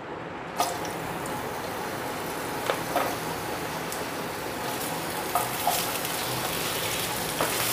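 Potato wedges frying in hot mustard oil in a nonstick kadai: a steady sizzle that starts just after the beginning as the potatoes go in. A few light knocks come from the wooden spatula against the pan.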